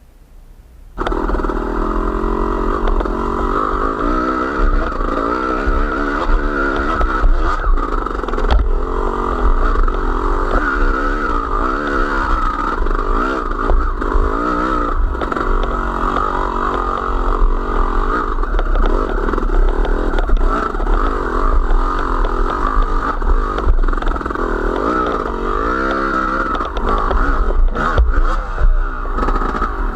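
Engine of a small motor vehicle running while riding, its pitch rising and falling with the throttle; it comes in suddenly about a second in.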